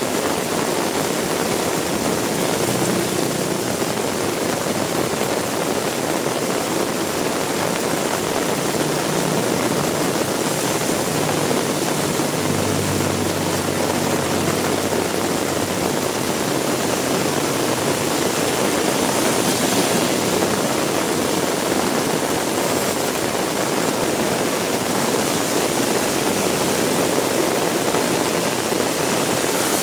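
Heavy rain falling steadily, a dense even hiss, with a low engine hum from a passing vehicle for a few seconds around the middle.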